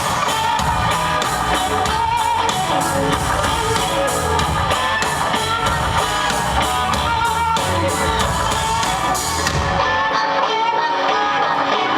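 A live rock band plays an instrumental passage led by guitar, with drums and bass. About ten seconds in, the drums and bass drop out, leaving the guitar alone.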